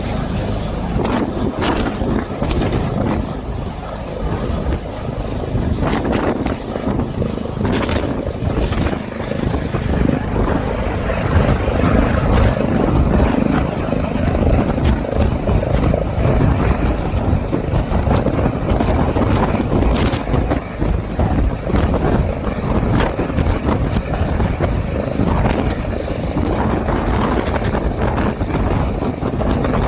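Helicopter hovering close by, its rotor and engine running steadily and loudly.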